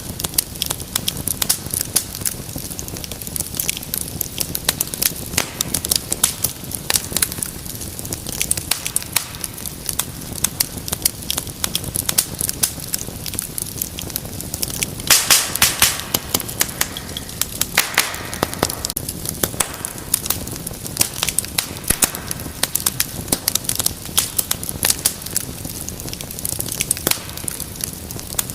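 Fireplace fire crackling: a steady low rumble of flames under many sharp pops. About halfway through comes a burst of louder pops with a brief hiss.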